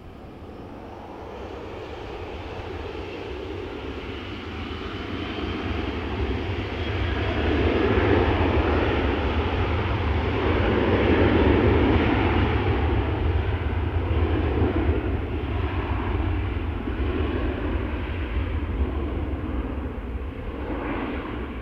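Airliner engines growing steadily louder as the aircraft passes, loudest about eight to twelve seconds in, then slowly fading.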